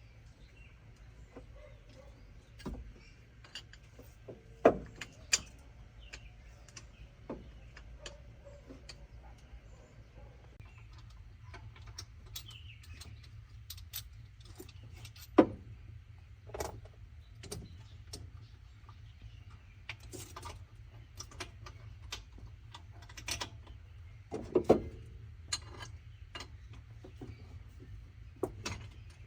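Scattered metallic clinks and knocks of hand tools on metal during repair work, irregular and a few seconds apart, with the loudest near the start, in the middle and near the end, over a steady low hum.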